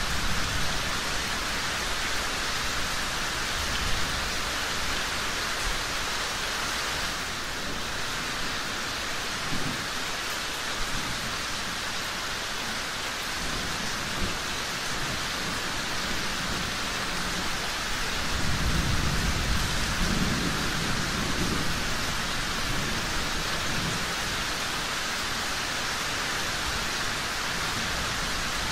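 Steady rain falling, a constant even hiss, with low thunder rolling under it several times, loudest in one long rumble about two-thirds of the way through.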